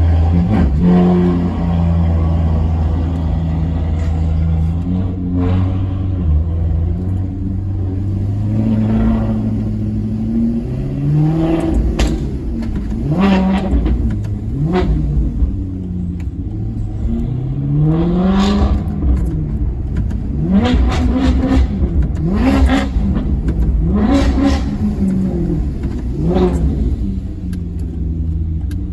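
Maserati Quattroporte Sport GT's V8 engine idling, then revved repeatedly in quick throttle blips, each rising and falling in pitch, before it settles back to idle near the end.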